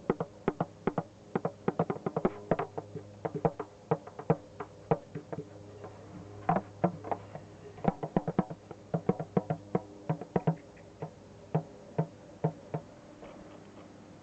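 Hand drumming: quick, irregular strikes in bursts over a ringing hum. The strikes thin out and stop near the end.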